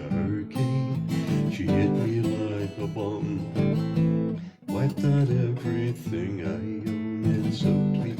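Acoustic guitar strummed in steady chords as song accompaniment, with a brief break about four and a half seconds in before the strumming resumes.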